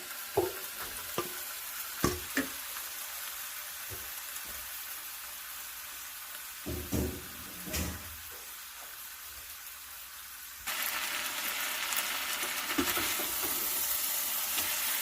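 Chicken pieces frying and sizzling in a pot of hot curry, with a few knocks and scrapes of a spoon against the pot. About ten and a half seconds in, the sizzle suddenly gets louder.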